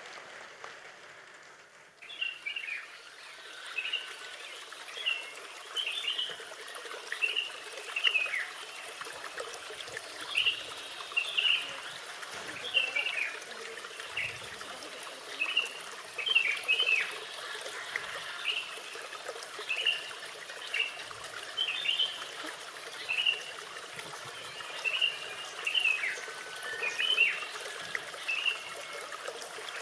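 Garden ambience of small birds chirping over trickling water, beginning about two seconds in. The chirps are short and repeat every second or two throughout.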